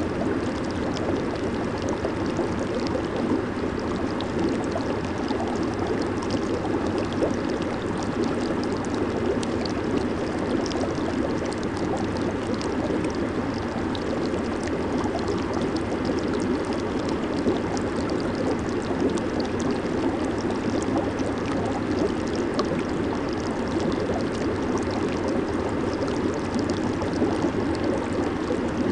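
Jacuzzi hot-tub water bubbling and churning steadily, a low, even rush with a light fizz of small splashes over it.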